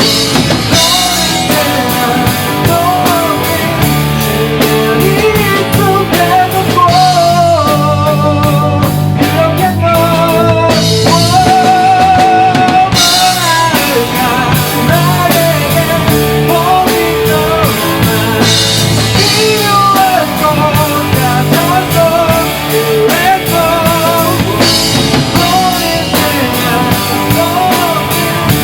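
A live rock band playing in rehearsal: drum kit, bass and electric guitars, with a wavering lead melody over the rhythm and no lyrics sung.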